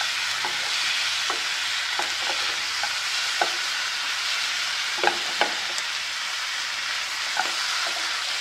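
Squid rings, onions, tomatoes and green chillies sizzling steadily in a nonstick frying pan while a wooden spatula stirs them, with scattered scrapes and taps of the spatula against the pan. The sharpest taps come a little past halfway.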